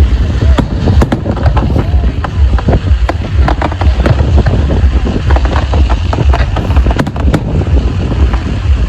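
Fireworks display: a dense run of bangs and crackles in quick succession, with wind buffeting the microphone.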